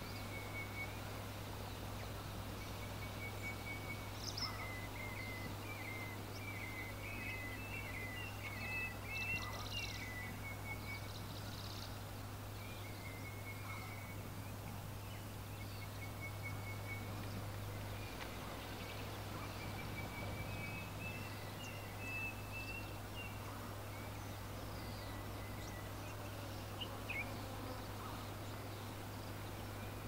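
Small birds chirping in short, repeated high trills, busiest a third of the way in and again past the middle. Underneath them are a steady hiss and a low, constant hum.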